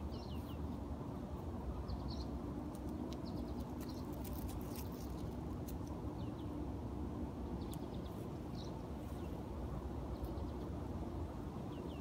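Small birds chirping in short, scattered bursts of high notes over a steady low background rumble.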